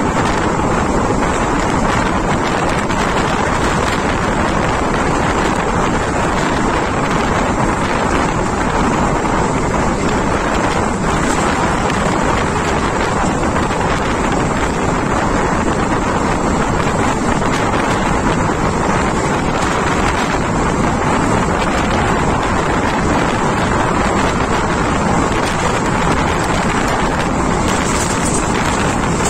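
Wind buffeting a microphone held out of the window of a moving Indian Railways passenger train, over the steady running noise of the coach on the track. It is an even, unbroken rush with no separate wheel clicks standing out.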